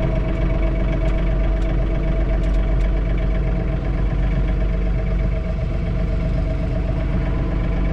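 John Deere 3046R compact tractor's three-cylinder diesel engine running steadily, heard from inside the closed cab.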